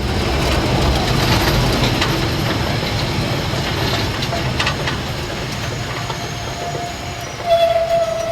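Narrow-gauge steam train running with a steady rumble and wheel clatter on the rail joints. Near the end a steady whistle sounds.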